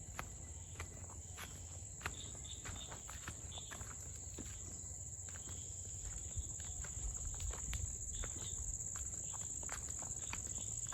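Steady high-pitched drone of insects, with footsteps crunching along a path at a walking pace.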